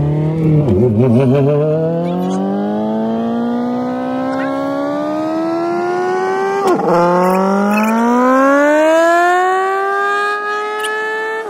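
1994 Mazda Miata's 1.8-litre four-cylinder engine, heard from inside the cabin, accelerating through the manual gears. The pitch climbs steadily, wavers and dips briefly about half a second in, drops sharply at a gear change about two-thirds of the way through, then climbs again.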